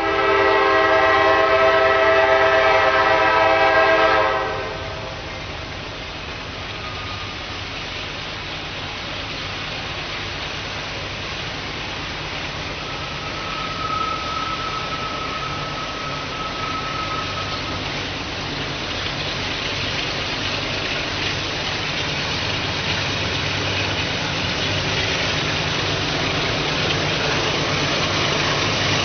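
A freight locomotive's multi-chime air horn sounds one loud chord for about four and a half seconds. Then the engine and rail noise of the approaching train builds steadily.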